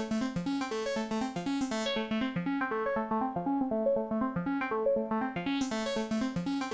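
Waldorf Iridium synthesizer running its step sequencer: a fast, repeating pattern of short synth notes stepping between a few pitches. About two seconds in the tone turns duller, losing its top end, then opens back up to bright near the end.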